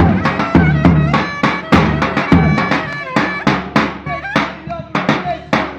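Live Turkish wedding dance music from a band: a heavy drum beat under a melody instrument that slides up and down in pitch.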